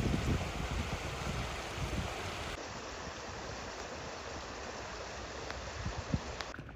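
Steady outdoor rushing noise with wind buffeting the microphone in the first couple of seconds, then a few sharp clicks near the end.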